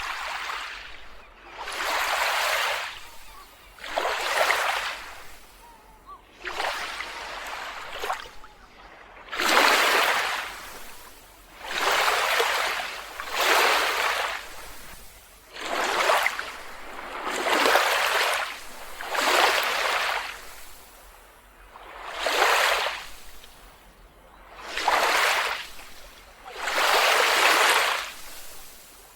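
Small waves washing onto a beach. The hiss of the surf swells and fades in a regular rhythm, about once every two seconds.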